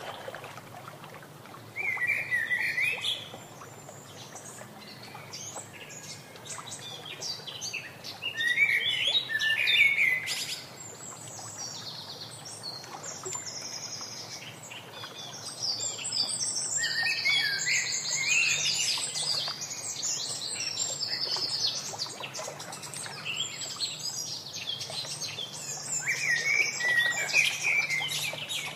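Wild birds chirping and calling in repeated bursts of quick, high, sliding notes over a faint steady background.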